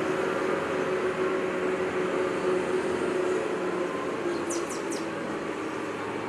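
Passenger train's coaches rolling away over the tracks: a steady rumble with a constant hum running through it, slowly easing. Three short high chirps come about four and a half seconds in.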